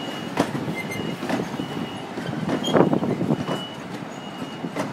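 Freight train of PNA wagons rolling past, wheels knocking over rail joints about once a second, with a faint high squeal coming and going.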